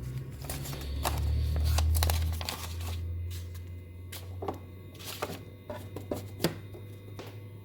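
An Inotec Scamax 6x1 document scanner runs with a low motor hum that swells for a couple of seconds near the start and then settles. Sheets of paper rustle and click as they are handled.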